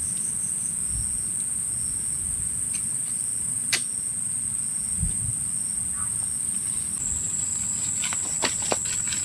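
Steady high-pitched drone of crickets or similar night insects, stepping slightly lower in pitch about seven seconds in. A few sharp clicks cut through it, the loudest near the middle and several more near the end.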